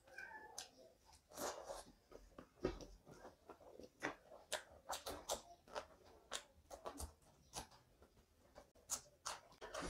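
Close-up eating sounds of rice and chicken curry eaten by hand: soft chewing with many short, irregular wet mouth clicks.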